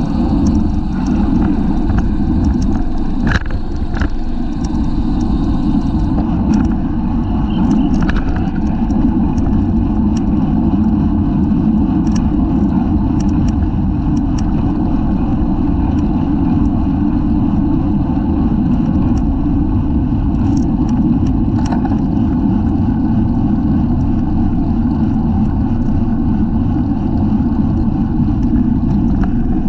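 Steady rush of wind and road noise on a bicycle-mounted camera riding at race speed, strongest in the low end, with scattered light clicks.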